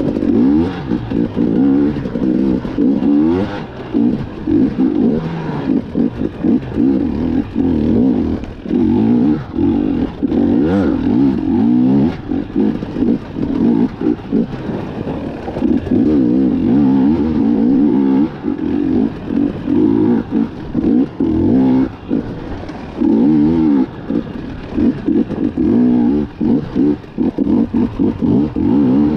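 KTM 250 EXC two-stroke single-cylinder dirt bike engine, revved up and down continuously as the throttle is opened and chopped over and over, with frequent short dips in level between bursts of acceleration.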